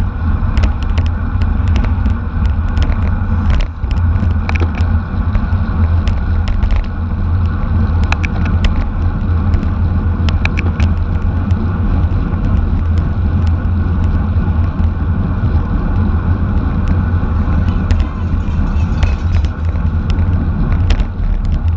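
Steady, loud wind rumble on the microphone of a camera moving at racing speed on a bicycle, with scattered sharp clicks and rattles.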